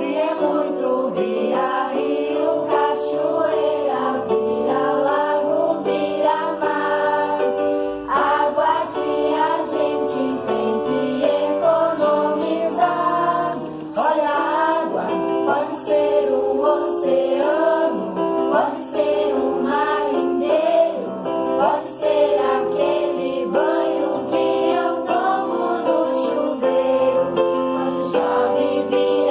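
Music with a group of voices singing together, choir-like, over instrumental accompaniment.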